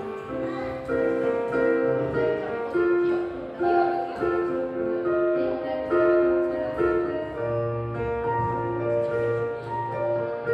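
Street piano being played: a slow melody of held notes over chords, with low bass notes coming in about three-quarters of the way through.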